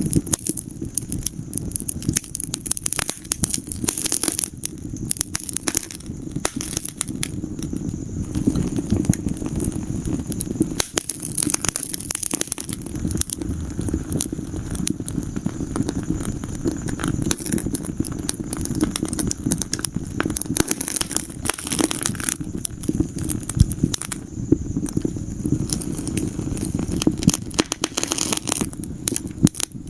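Wood fire burning in a fireplace, with dense, constant crackling and popping over a low rumble of the flames.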